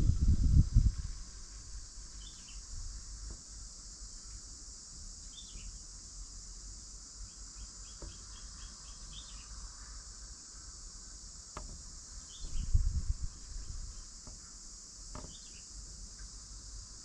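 Steady high-pitched insect drone, like cicadas or crickets, with short faint bird chirps every few seconds and a quick run of ticking chirps partway through. Low rumbles come right at the start and again about two-thirds of the way in.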